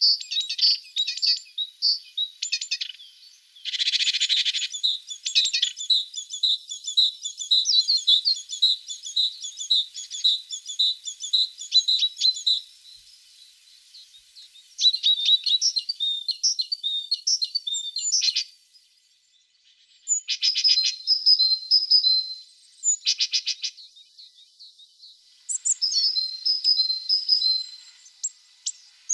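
Tits singing and calling: quick runs of high repeated notes and fast trills, broken by a few short lulls.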